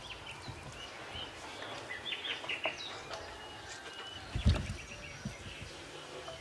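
Birds chirping in short, scattered calls over a steady background hiss, with a single dull knock about four and a half seconds in.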